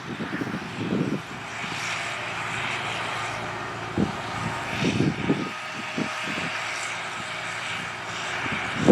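John Deere 8300 tractor's six-cylinder diesel engine running steadily under load while cultivating, with gusts of wind buffeting the microphone.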